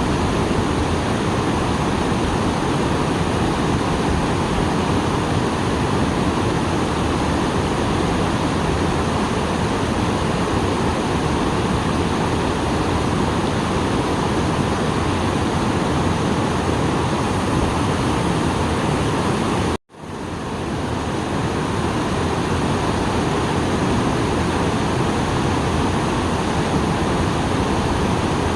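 Small waterfall, running full after rain, pouring steadily in an even rushing noise. About twenty seconds in the sound cuts out for an instant and swells back within about a second.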